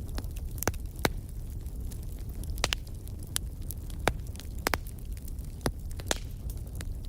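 Wood fire burning in a fireplace: irregular sharp crackles and pops, about a dozen, over a steady low rumble of the flames.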